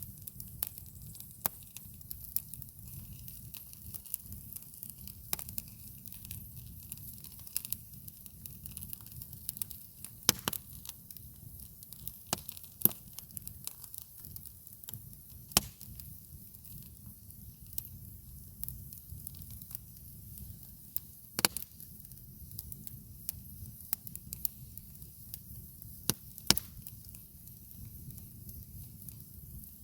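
Campfire burning, the wood crackling with irregular sharp pops, a few of them much louder than the rest, over a steady low rumble.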